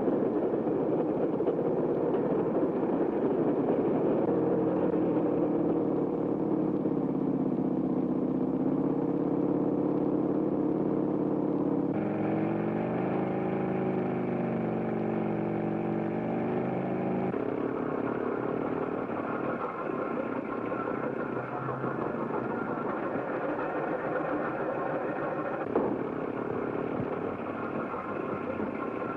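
Vehicle engine noise on an old film soundtrack: a steady drone with several pitched tones that sag and rise again about eight seconds in, then change abruptly twice, about twelve and seventeen seconds in.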